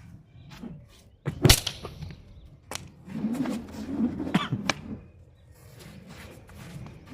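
A few sharp knocks or clacks, the loudest about a second and a half in, with a low drawn-out call or voice in the middle.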